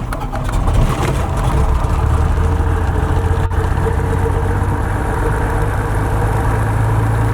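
Socata TB20 Trinidad's Lycoming IO-540 six-cylinder engine just after starting, picking up over the first two seconds and then idling steadily.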